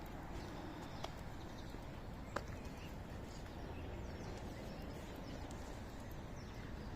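Quiet outdoor background noise: a steady low rumble, with two faint light clicks about a second and two and a half seconds in.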